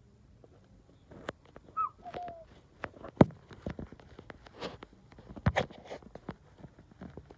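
Decoy Chinese francolin between its crowing calls: two brief soft falling notes about two seconds in, among scattered light taps and clicks.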